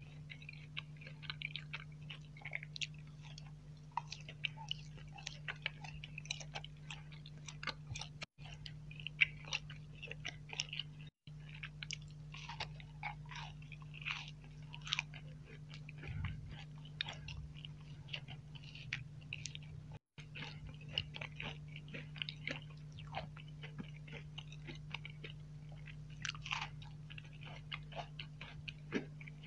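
Close-miked chewing and biting of sweets: a piece of pistachio nougat at first, then a chocolate sandwich cookie bitten and crunched, with many small crackly mouth clicks. A steady low hum runs underneath, and the sound drops out briefly three times.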